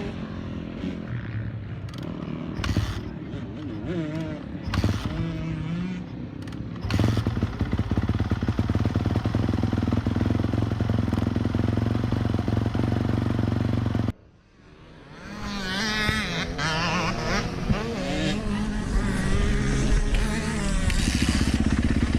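Dirt bike engines running and revving on a motocross track. A loud steady engine comes in about a third of the way through, the sound cuts out abruptly just past halfway, then several bikes are heard revving with rising and falling pitch.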